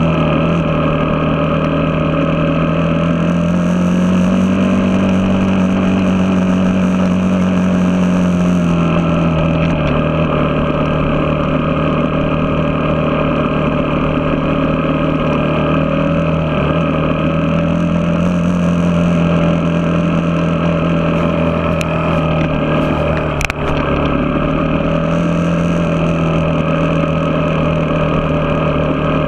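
Motocross bike engine running steadily under way. Its pitch rises and falls gently with the throttle, and there is a brief dip with a click about three-quarters of the way through.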